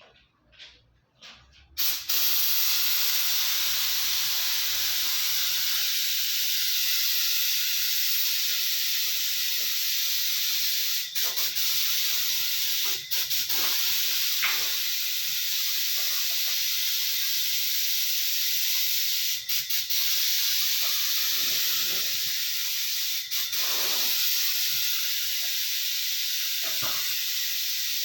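Compressed-air paint spray gun hissing steadily, starting about two seconds in, with a few brief breaks where the trigger is let off.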